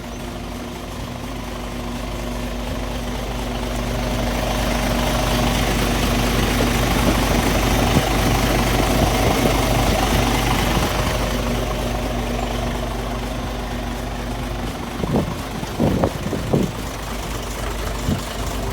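Isuzu Giga heavy truck's diesel engine running steadily at idle. The sound grows louder over several seconds, then eases back, while the engine's pitch stays the same. A few short knocks come near the end.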